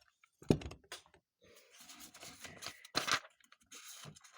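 Carburetor parts being fitted together by hand: two sharp clicks, about half a second in and again about three seconds in, with light scraping and handling noise between them.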